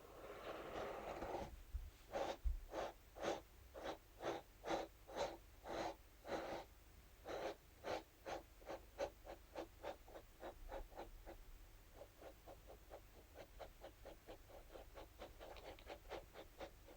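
Scalp massage brush scratched in short repeated strokes across a surface, a soft rasping about two strokes a second that speeds up to about four a second and turns fainter, then grows louder near the end.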